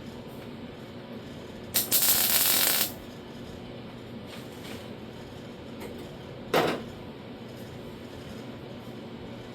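A weld tack on an 18-gauge steel door-skin repair panel: about a second of loud crackling arc a couple of seconds in, then a short, sharp burst a few seconds later.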